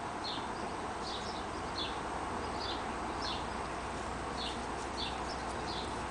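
A small bird chirping over and over, short high notes about once or twice a second, over a steady background hum.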